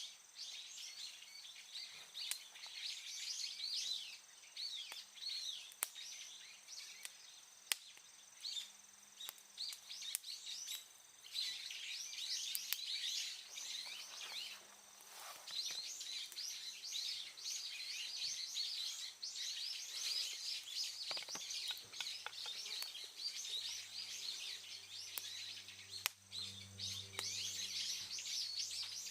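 Many small birds chirping and singing in rapid, overlapping calls, with a few sharp clicks now and then.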